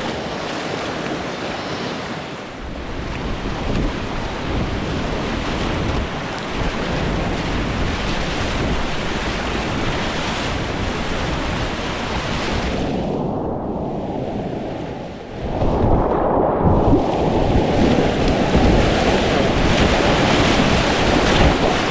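Rushing whitewater of a river rapid heard close up through an action camera's microphone, with wind and water buffeting the mic. About two-thirds of the way in the sound goes muffled for a couple of seconds, then comes back louder.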